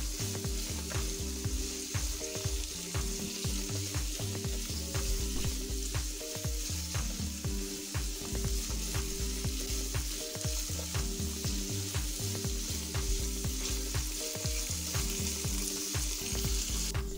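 Chopped almonds and pistachios sizzling in melted butter in a nonstick pan, with a steady hiss and small crackles. A silicone spatula stirs them as they gently fry. Soft background music plays underneath.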